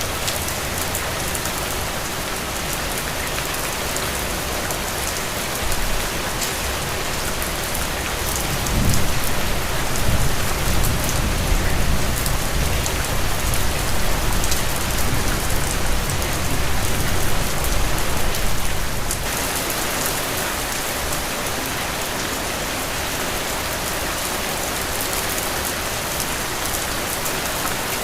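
Heavy rain falling steadily in a dense hiss, with a long, low rolling rumble of thunder from about a third of the way in that dies away after about ten seconds.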